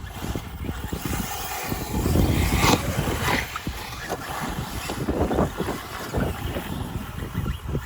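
Radio-controlled cars running on a dirt track, a steady motor and tyre noise that swells louder around two to three seconds in, with a couple of sharp knocks about three seconds in.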